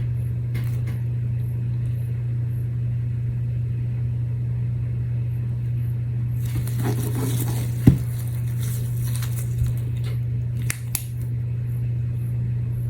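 A steady low hum throughout, with a single sharp click about eight seconds in and a few small clicks a little later, like small tools or objects being handled on a work surface.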